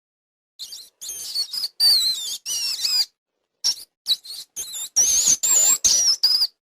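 High-pitched chirping squeaks of a small animal: many short calls with wavering pitch, coming in quick runs that break off into sudden complete silences.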